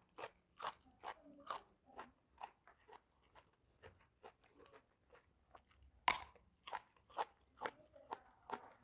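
Crunching of a raw green Thai eggplant being chewed, a crisp crunch about twice a second with one louder crunch about six seconds in.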